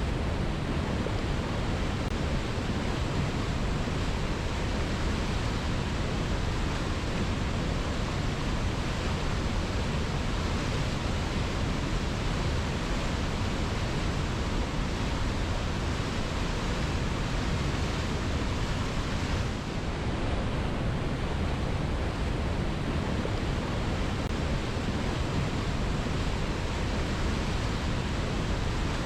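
Waterfall rushing in a steady, unbroken roar of falling water, heavy in the low end, dipping briefly about twenty seconds in.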